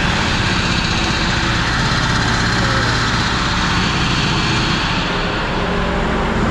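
Dump truck's diesel engine running steadily and loud, with a low engine hum under a wide hiss; the higher hiss eases off about five seconds in.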